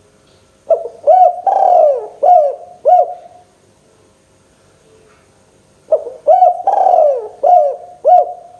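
Spotted dove (tekukur) cooing: two phrases a few seconds apart, each of about five short coos with a longer drawn-out note in the middle.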